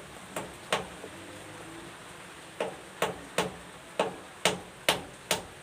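Hammer blows on wood: two strikes, a pause of nearly two seconds, then a steady run of blows about two a second.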